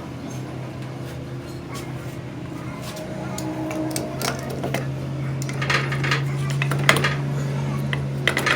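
Metal parts and tools clinking and knocking against each other, a scatter of sharp clinks that grows busier in the second half, over a steady machine hum that swells about three seconds in.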